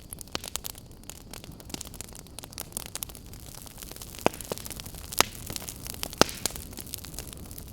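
Wood campfire crackling: a steady hiss full of small snaps, with a few louder pops in the second half.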